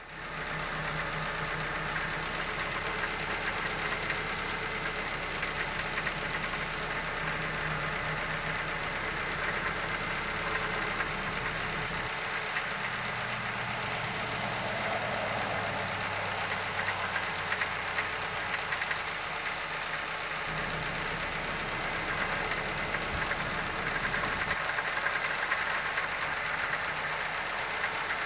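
Car engine running at idle with a steady racket from the accessory drive, which the owner suspects is a failing alternator decoupler pulley. The low hum shifts a few times, about twelve and twenty seconds in.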